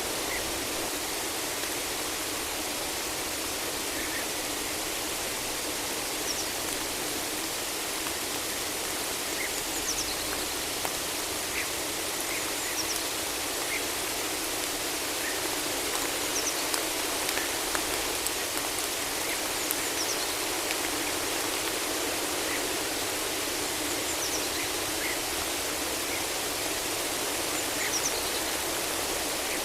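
Steady rain falling in a forest, an even hiss with no let-up, with faint short high chirps now and then.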